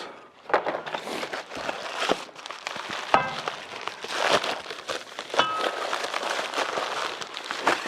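Packaging rustling and crinkling as parts are unpacked, with light knocks and two short metallic clinks that ring briefly, about three and five and a half seconds in.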